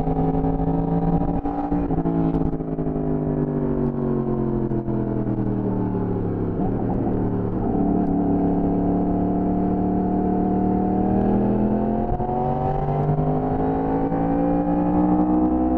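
Yamaha sport bike's engine heard from the rider's seat: the revs fall away for several seconds as the bike slows, hold steady in the middle, then rise again near the end as it accelerates.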